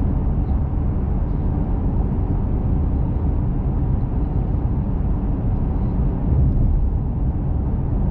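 Steady road and engine noise of a small truck driving on a rural road, heard inside the cab as an even low rumble.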